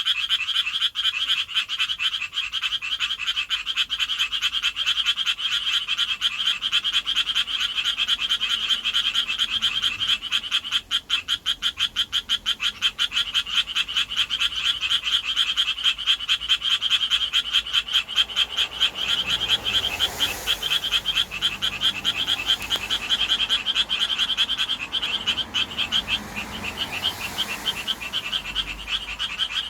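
Japanese tree frog mating calls: males calling to attract females, a steady, fast stream of raspy pulses. A faint low rumble joins in about two-thirds of the way through.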